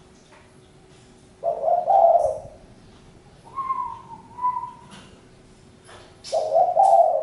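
Spotted dove cooing: two loud phrases about four seconds apart, with softer, higher notes in between.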